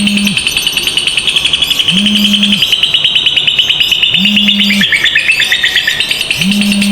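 Lovebirds giving a long unbroken 'ngekek' chatter, a very fast run of high, shrill rattling notes with no break. A low hum comes and goes underneath about every two seconds.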